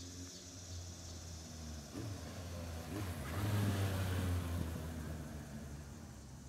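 2003 Suzuki Bandit 1200's inline-four engine running through a Delkevic Stubby 14" carbon-fibre oval aftermarket muffler while the motorcycle is ridden. The exhaust note grows louder from about two seconds in, is loudest a second or two later, then eases off and fades.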